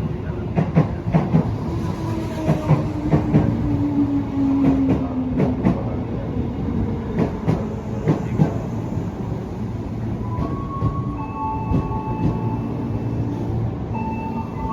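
A train passing on the rails, its wheels clacking rhythmically over the rail joints. A tone falls in pitch over the first five seconds, and short steady high-pitched tones come in during the last few seconds.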